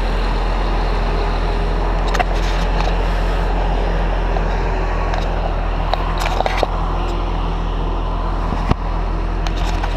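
A heavy engine running steadily at a constant speed, with a few light clicks and knocks over it.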